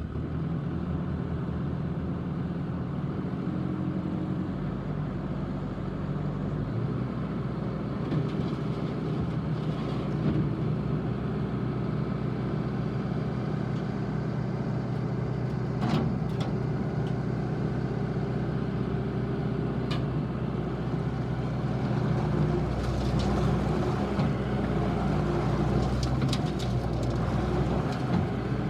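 Bobcat S750 skid steer's diesel engine running steadily, with a few sharp knocks in the second half.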